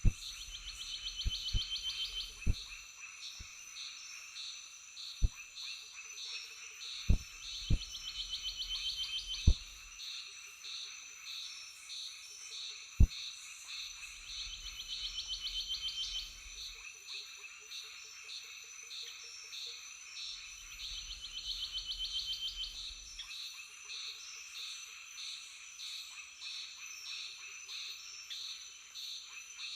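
Steady pulsing chorus of frogs and insects, with a few sharp knocks in the first half and two stretches of low rumble in the middle.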